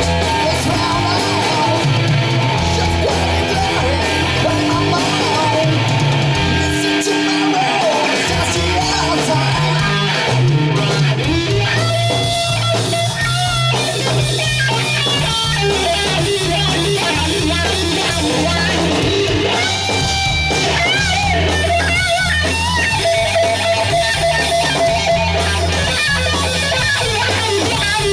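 Rock band playing: electric guitars over bass and drums, with a lead guitar playing bending notes from about halfway through.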